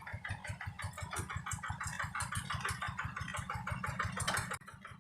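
Single-cylinder diesel engine of a rice-field hand tractor running with a fast, even chugging, about nine beats a second; it drops off about four and a half seconds in.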